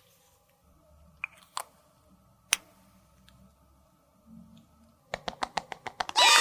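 A few sharp clicks and taps of small hard objects, then a quickening run of clicks. Near the end comes a sudden loud ringing sound with several pitches falling slowly.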